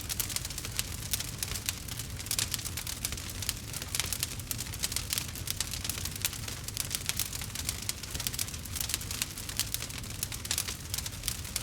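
Campfire crackling: dense, irregular pops and snaps from burning wood over a steady low rumble of the flames.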